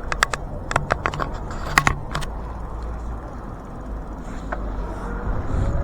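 Steady rumble of wind and road noise while riding a bicycle, with a quick run of sharp clicks and rattles in the first two seconds and one more click about four and a half seconds in.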